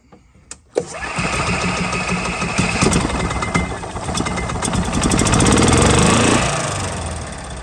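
Gas Club Car golf cart's single-cylinder engine being started: a click about a second in, then the belt-driven starter-generator cranks it and the engine fires and runs, growing louder to a peak around five to six seconds in before dropping back near the end.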